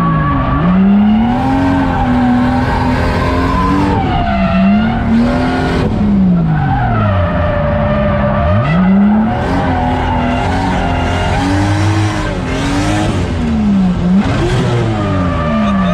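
630-horsepower drift car's engine revving hard, its pitch repeatedly dropping sharply and climbing again about five times as the driver works the throttle. The tyres squeal and skid under it while the car drifts.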